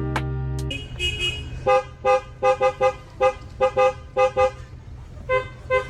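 A horn tooting over and over in short, same-pitched honks, grouped in quick rhythmic runs of two to four. A snatch of plucked music stops just before the first honk.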